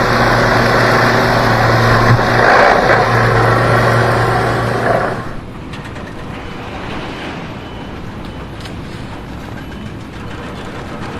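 A motor or engine running loudly with a steady hum, which drops away after about five seconds to a quieter background with a few faint clicks.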